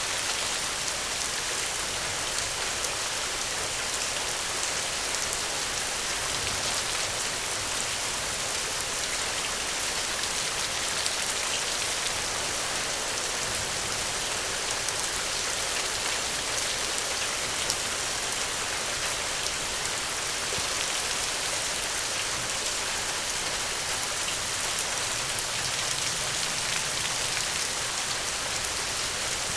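Steady rain falling, a dense, even patter of drops that holds constant throughout.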